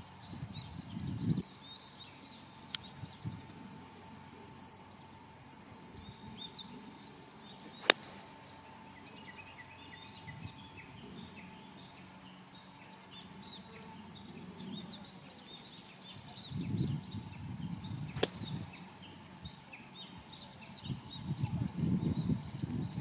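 Small birds chirping on and off over a steady high hiss. Two sharp clicks come about eight and eighteen seconds in, and low rumbling noise comes near the start, around seventeen seconds and near the end.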